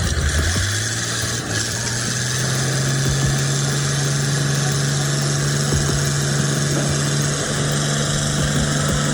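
A motor vehicle's engine running steadily, its pitch rising over the first few seconds and then holding.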